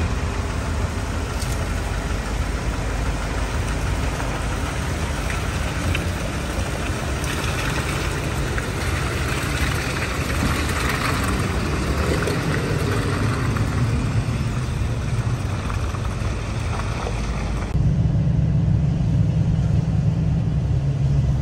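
A vehicle engine running steadily. About 18 seconds in it gives way to the steady low drone of engine and road noise heard inside a moving car's cabin.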